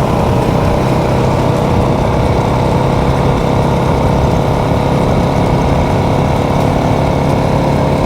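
Motorcycle engine running at a steady, even speed while riding.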